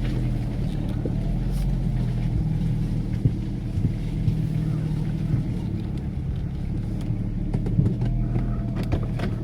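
A vehicle's engine runs steadily at low revs, with a few light knocks.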